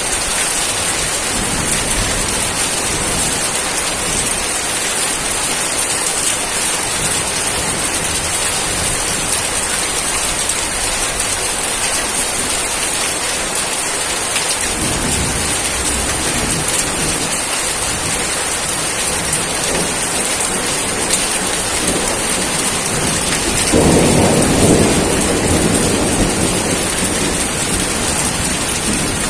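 Steady heavy rain with a dense, even hiss. Low thunder rumbles roll in midway, and the loudest comes near the end.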